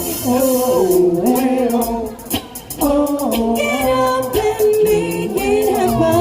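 Live 1980s pop-rock cover band playing, with a female lead singer holding long sung notes that step up and down in pitch over the band.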